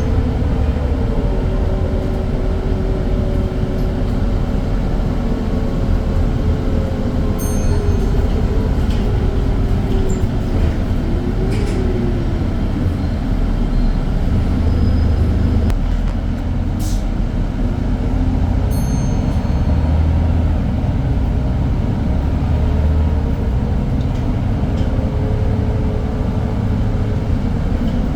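Irisbus Citelis 10-metre diesel city bus running, a steady low engine rumble with a whine that falls and rises in pitch several times as the bus speeds up and slows down.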